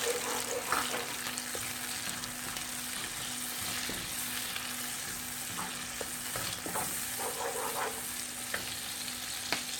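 Onion-tomato masala with spice powders sizzling in hot oil in a wok, stirred with a spatula that scrapes and taps against the pan now and then.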